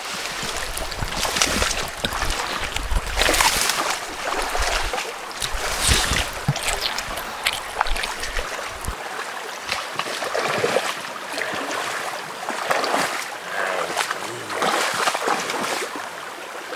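Water splashing and sloshing in a shallow river in irregular bursts, as of someone wading through it.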